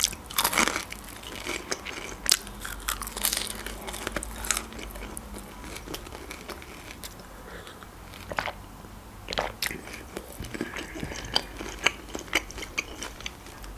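Close-up chewing of pizza, with crisp crunches and mouth clicks. They come thick and fast for the first few seconds, then thin out to scattered clicks.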